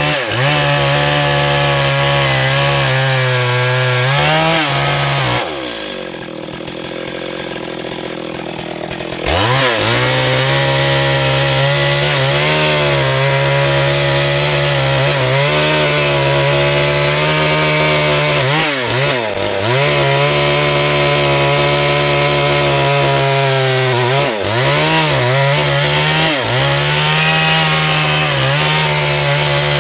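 Chainsaw running at high revs while cutting wood. About five seconds in it drops back to a quieter idle for roughly four seconds, then runs up again. Its pitch sags and recovers briefly several more times.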